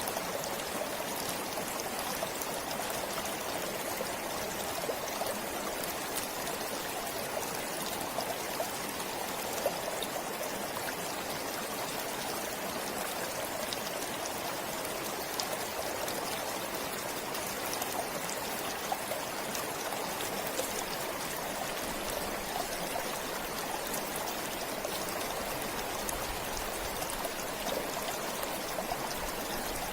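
Forest stream flowing, a steady rush of water with many small splashing ticks through it.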